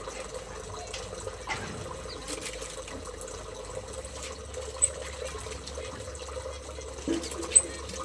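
Steady trickling-water noise with a low hum. Two short, high chirps from the aviary's small birds come about five and seven and a half seconds in; the second is the loudest sound.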